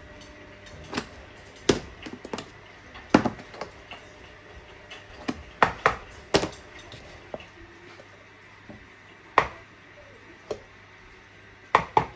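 Kitchen utensils knocking and clinking against dishes and a work surface, a dozen or so sharp, irregular strikes with short gaps between them.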